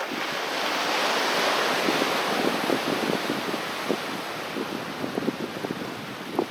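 Sea waves breaking on the shore: a surge of surf hiss builds over about the first second and slowly dies away, with many small crackling splashes of water running through it.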